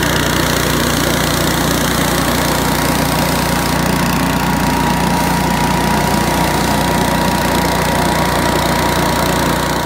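Billy Goat F601S push-type wheeled leaf blower running steadily: its 170 cc Robin engine drives the impeller, with a steady whine above the engine note.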